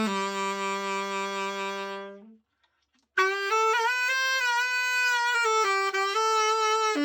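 Tenor saxophone played solo: a long held low note that dies away, a short breath pause, then a new phrase of sustained higher notes. Likely the Ishimori Woodstone WST-VL being play-tested after its overhaul and precision setup.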